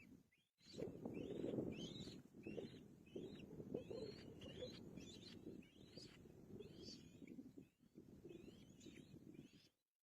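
A songbird singing a repeated series of short, hooked whistled notes, about one or two a second, over a low background rumble; both cut off shortly before the end.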